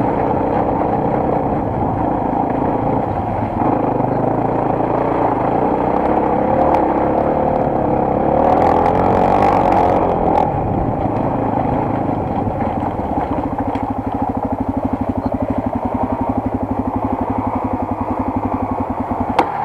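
Single-cylinder enduro motorcycle engine running while riding, with a brief hiss about halfway through; in the last third it settles into an even, slow chugging at low revs.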